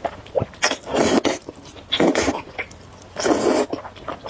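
Noodles being slurped into the mouth in several short, loud sucks, with small wet clicks of chewing between them.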